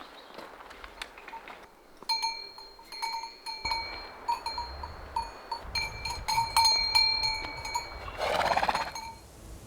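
Livestock bells clanging irregularly, several rings overlapping for most of the time, with a short animal call about eight seconds in.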